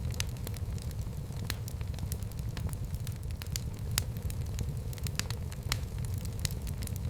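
Wood fire burning in a fireplace: a steady low rumble of flames with irregular sharp pops and crackles from the burning logs, a couple of them louder.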